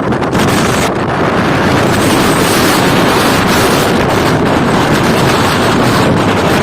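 Strong wind blasting across the microphone: a loud, dense roar of wind noise.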